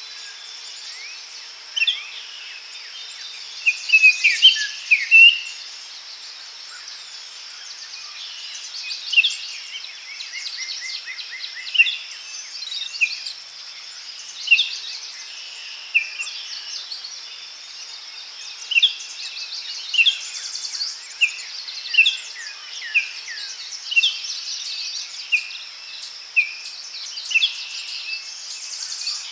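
Daytime forest ambience: small birds chirping and trilling in short, repeated calls over a steady high insect drone.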